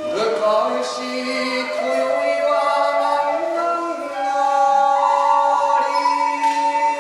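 Kagura song sung by a male voice over a bamboo kagura flute holding long, sustained notes.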